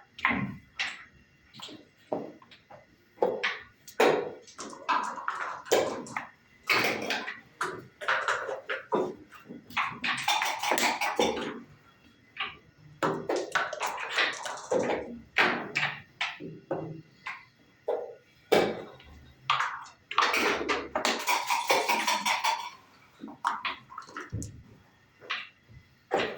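Backgammon being played: dice rattling and rolling, and checkers clicking and tapping as they are moved across the board, a busy run of sharp clicks with a couple of longer rattles.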